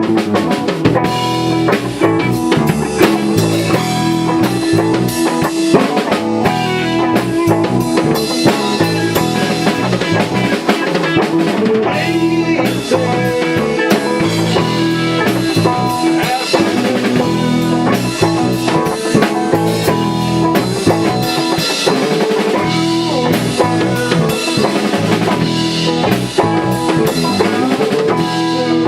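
A band playing a song live: a drum kit with bass drum and rimshots keeping a steady beat under guitar, at a loud, even level.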